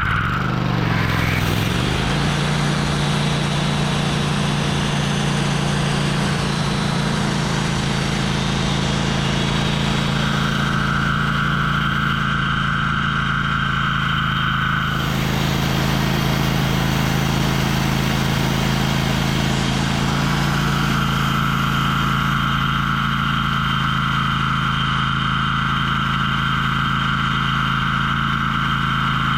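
Sawmill engine winding up over the first couple of seconds and then running steady as the band saw cuts a solid oak log. A higher whine from the cut rises over the engine about a third of the way in, drops out for a few seconds and returns for the rest.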